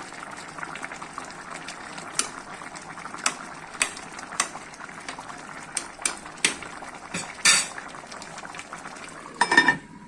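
Pot of plov simmering under its lid, with a steady bubbling hiss. Sharp metallic clicks and clinks of pot, lid or utensils come every second or so, with a louder ringing metal clatter near the end.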